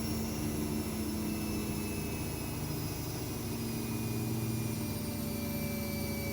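AEG Lavamat W 1450 washing machine running: a steady hum with faint whines that slowly fall in pitch as the drum winds down at the end of a spin.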